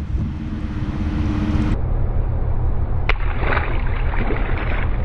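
Wind rumbling on the microphone over water sloshing around a kayak, with a short sharp sound about three seconds in.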